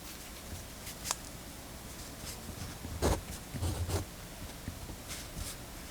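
Handling of a Pentel GraphGear 1000 mechanical pencil and paper on a desk: a sharp click about a second in, then a few short scratchy rubs and soft knocks around three to four seconds, with faint ticks near the end.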